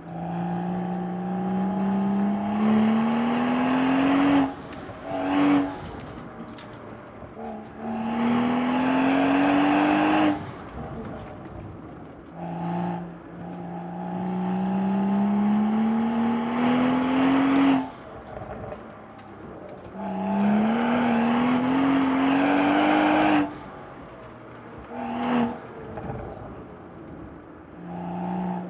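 BMW 135i's turbocharged inline-six under hard acceleration, its pitch rising steadily for a few seconds and then dropping away sharply as the throttle closes. This happens about five times, with brief throttle blips in between, as the car works through an autocross course.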